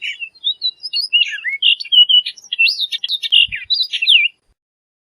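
Orchard oriole singing: a fast, varied string of whistled and slurred notes lasting about four seconds, then stopping abruptly.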